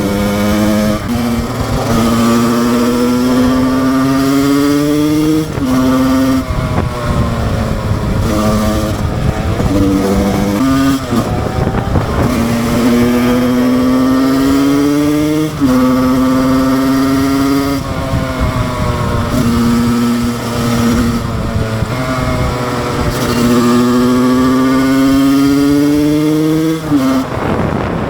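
Husqvarna SM 125 two-stroke supermoto engine accelerating hard through the gears: its note climbs steadily in each gear and drops sharply at each shift, several times over.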